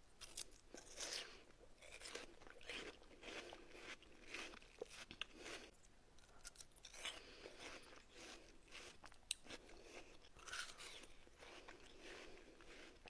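Watermelon being bitten and chewed close up: crisp, wet crunches that come irregularly, one after another.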